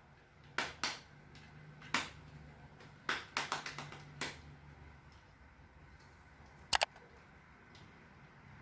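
Scattered light clicks and knocks of telescope parts being handled and fitted together, with a quick run of clicks a few seconds in and a sharp, bright double click near the end.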